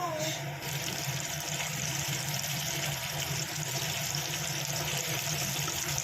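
Flour-coated chicken pieces sizzling as they deep-fry in hot oil: a steady hiss that grows fuller about a second in, over a low steady hum.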